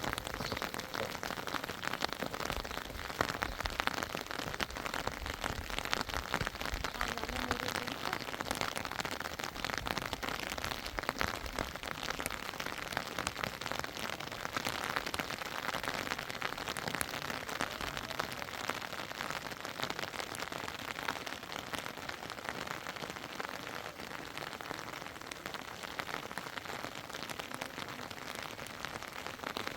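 Steady rain falling, a dense hiss made up of many small drop impacts.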